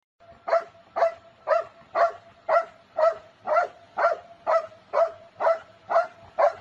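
A dog barking in a steady, even rhythm, about two barks a second, around a dozen in a row.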